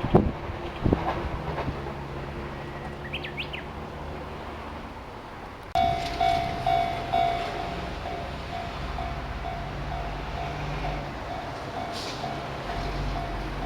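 Train running on the Sasebo Line, its wheels clacking over rail joints in the first couple of seconds, with a short bird chirp. About halfway through, the sound changes abruptly and a repeating ringing tone sounds over the train's steady low rumble.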